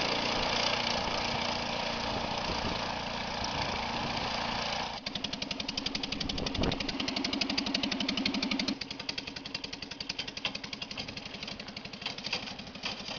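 Citroën 2CV's air-cooled flat-twin engine running as the stripped amphibious car drives along, a rapid, even beat of firing pulses. The sound changes abruptly about five seconds in and drops in level a few seconds later.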